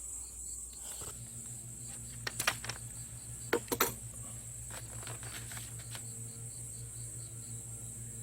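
Small submersible water pump switched on about a second in, then humming steadily. A few sharp clicks and knocks come between about two and four seconds in, over a steady high thin whine.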